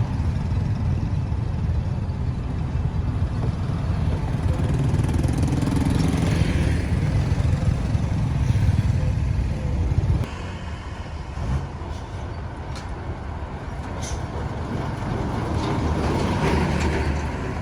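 Busy road traffic: engines of passing trucks and other vehicles making a continuous low rumble, which drops suddenly about ten seconds in.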